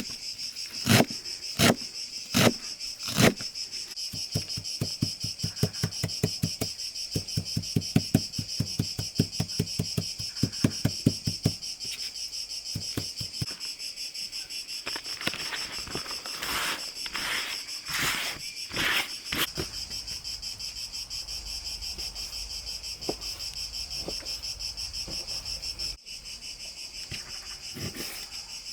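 Crickets chirring steadily, with knocks over them: a few separate knocks at first, then a fast run of about four or five a second for several seconds, then a few louder clatters.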